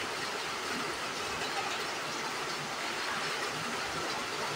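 Rain falling steadily: a continuous, even hiss.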